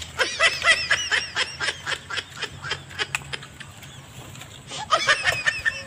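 A bird calling in quick runs of short, high chirps: one run over the first two seconds and another about five seconds in.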